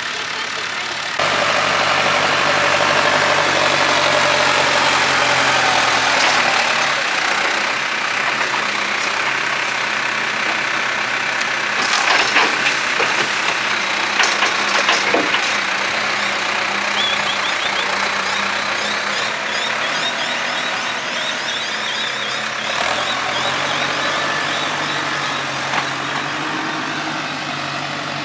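Heavy diesel engine revving up about a second in and running hard under load, with a few sharp clanks in the middle, then easing back toward idle near the end.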